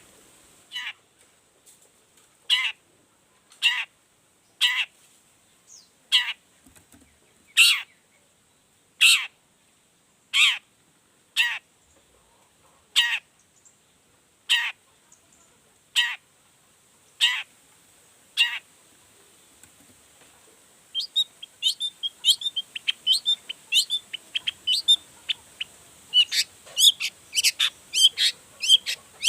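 Long-tailed shrike (cendet) giving a series of about fifteen harsh calls, each falling in pitch, roughly one every second and a half. After about twenty seconds it breaks into a fast chattering song of varied short notes.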